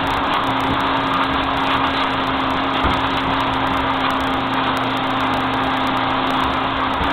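A motor running steadily, with a constant hum and an even rushing noise.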